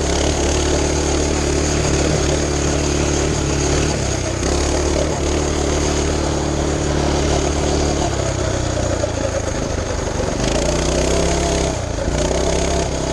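Mini bike's small single-cylinder engine, its governor removed, running at high steady revs under way. A brief dip comes about four seconds in; the revs fall off about eight seconds in and climb again a couple of seconds later.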